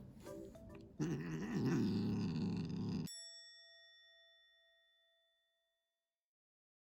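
A cat growling and hissing for about two seconds, cut off abruptly by a single bell-like ding sound effect that rings out and fades over about three seconds. Light mallet music plays briefly at the start.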